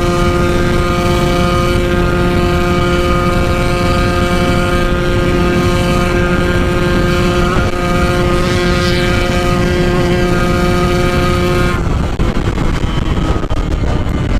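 Yamaha RX-King two-stroke single, ported and bored out to about 150 cc, running flat-out at top speed with its revs held steady, a constant high note over wind rush. About 12 seconds in the engine note cuts off suddenly as the throttle is closed, leaving wind and road noise.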